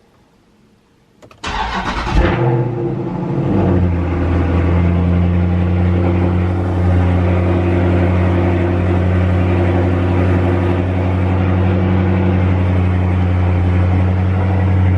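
Dodge Charger Scat Pack's 392 HEMI V8, running with its mid mufflers deleted and its resonators kept, starting about a second and a half in. It fires with a loud flare of revs, then drops and settles into a steady, loud idle.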